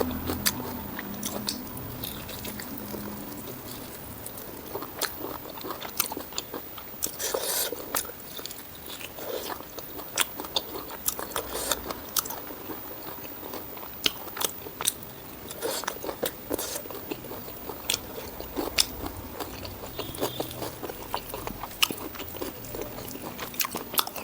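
Close-miked eating sounds: wet chewing with frequent sharp, crunchy bites and mouth clicks, from a meal of spicy pork ribs with rice and chilli.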